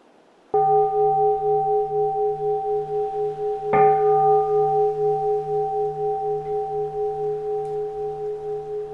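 Keisu, a bowl-shaped Buddhist temple bell, struck twice about three seconds apart; its tones ring on and fade slowly with a pulsing waver.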